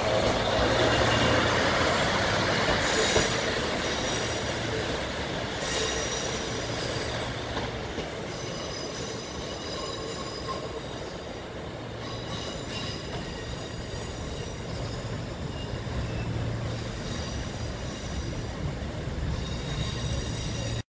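Class 156 Super Sprinter diesel multiple unit pulling away over curved track. Its wheels squeal against the rails in several thin high tones above a low diesel engine drone. The sound grows fainter over the first several seconds as the train draws off, and the squeal carries on.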